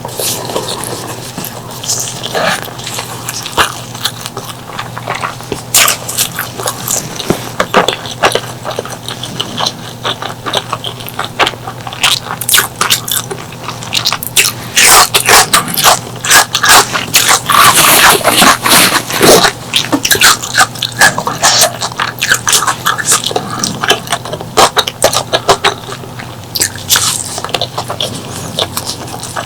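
Close-miked eating: chewing and wet mouth clicks from someone eating spicy pork leg curry with rice. The clicks come in an irregular stream that grows busiest about halfway through.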